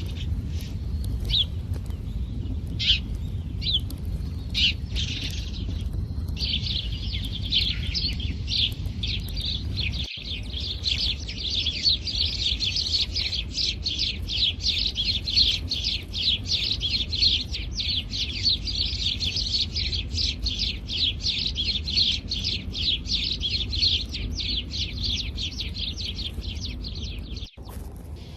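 House sparrows chirping: scattered chirps at first, then from about six seconds in a fast, unbroken run of chirps, about four a second. A low rumble runs underneath.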